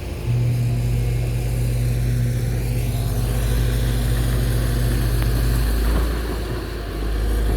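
Backhoe excavator's diesel engine running, stepping up to a louder, higher-load run just after the start, easing back around six seconds in, then picking up again near the end.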